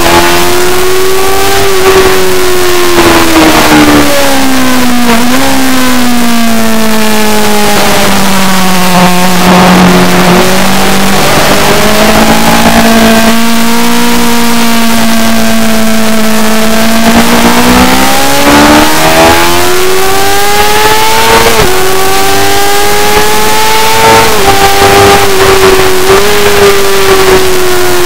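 Superbike engine running hard on a race track, loud throughout. Its pitch sinks slowly to a low around ten seconds in, holds, then climbs again, with a few sudden jumps in pitch along the way, over a steady rush of wind noise.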